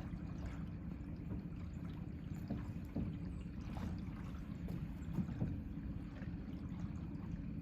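Small fishing boat on a river: a steady low rumble of water and wind around the hull, with a faint hum and a few light splashes or knocks.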